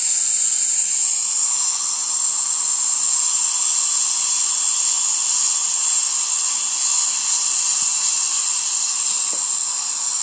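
Standard dental high-volume evacuator (HVE) suction tip running without noise attenuation: a loud, steady rush of air into the tip with a high whistle on top, the unmuffled suction noise that the uploader rates at 94 dB.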